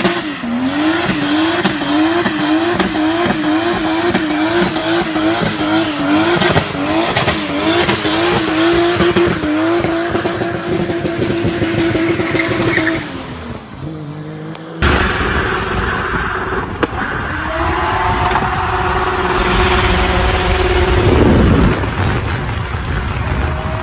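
BMW E30's M50B20 straight-six held at high revs with the rear tyres spinning and squealing in a burnout. The revs rise and drop quickly about twice a second, then hold steady and fall away. About 15 seconds in, a second take begins: the engine holds a steady high rev over a heavy low rumble, and the revs fall near the end.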